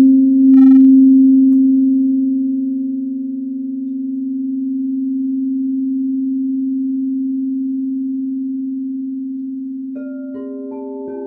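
Crystal singing bowl sustaining one steady low tone, with a fainter higher tone above it, slowly swelling and easing. About ten seconds in, a run of short, higher ringing notes starts over it.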